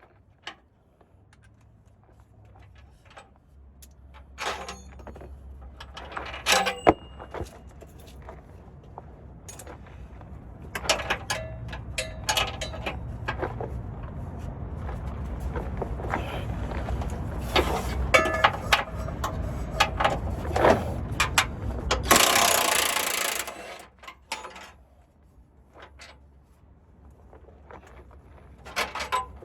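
Hand-tool work on a vehicle: scattered metallic clicks and clanks over a low steady mechanical hum that grows louder and stops suddenly about 22 seconds in, followed at once by a loud hissing burst lasting about a second and a half.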